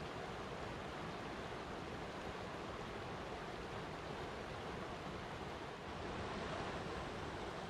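Steady rushing of flowing water, a continuous even wash with no distinct splashes or drops.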